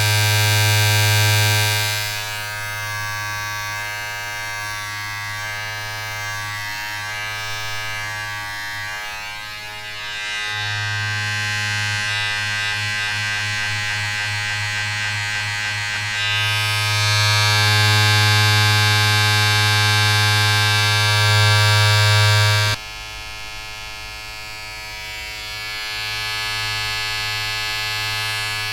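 A small electric motor buzzing continuously, its tone and hiss shifting every few seconds, then dropping sharply in level about 23 seconds in.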